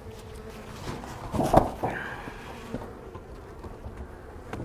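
Honey bees buzzing steadily around an opened hive, stirred up and agitated after being disturbed. A single sharp knock about a second and a half in, with a fainter one a little later.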